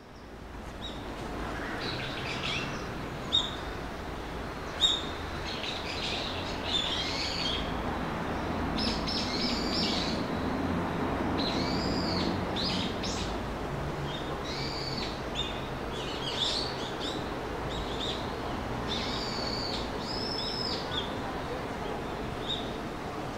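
Wild birds calling, with repeated short high chirps and arching calls, over a steady low background hum. Two sharp clicks come about three and five seconds in.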